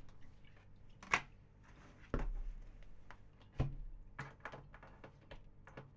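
Tarot or oracle cards being handled on a table: a few scattered taps and clicks, one sharp one about a second in, and soft thumps about two and three and a half seconds in.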